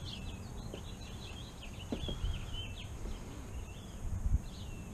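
Small birds chirping and trilling in quick short phrases, busiest in the first half, over a low rumble of wind-like noise, with a couple of faint knocks.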